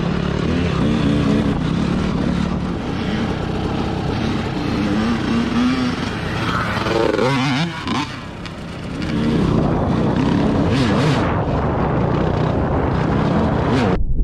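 Motorcycle engine running and revving up and down while riding, under heavy wind noise on the microphone. About eight seconds in the engine drops off briefly, then pulls back up.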